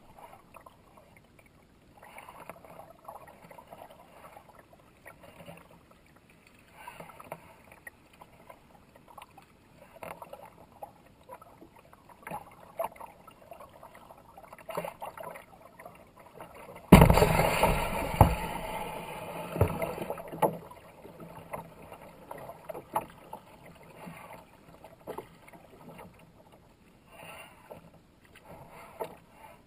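Kayak paddle strokes dipping and splashing in the water at a steady pace. A little past the middle comes a sudden loud burst of noise that fades over a few seconds.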